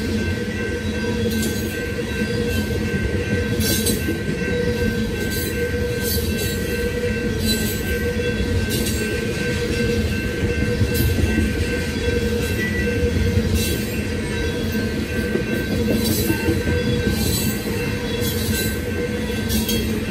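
Freight train of loaded tank cars rolling past at close range: a steady rumble of wheels on rail with thin steady high-pitched tones over it, and irregular sharp clicks every second or two.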